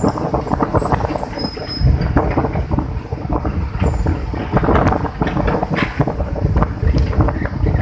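Strong gusty sea wind buffeting the microphone in heavy, irregular rumbling bursts, over the rush of surf breaking on the beach.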